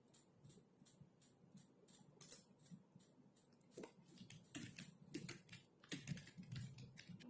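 Typing on a computer keyboard: a steady run of faint keystrokes, about four or five a second, that grows louder and quicker in the second half.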